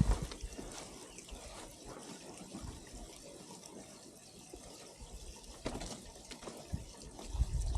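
Faint water sound, a light running or trickling of water. A low rumble builds near the end.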